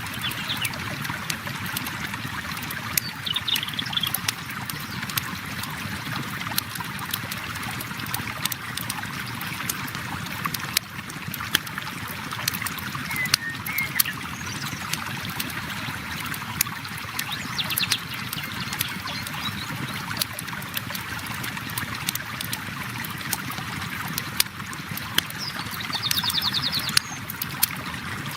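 A river flowing steadily, with the scattered sharp pops and crackles of a wood campfire over it. A few short bird chirps come through, the clearest near the end.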